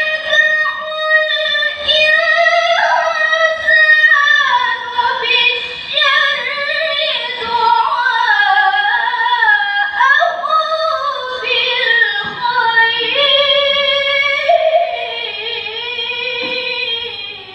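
A young girl reciting the Quran in melodic tilawah style, drawing out one long phrase in a high voice with winding, ornamented turns of pitch. The phrase fades out near the end.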